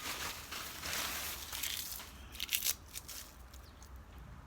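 Dry leaves crinkling and crunching as they are handled, with a few sharper crackles about two and a half seconds in, then quieter.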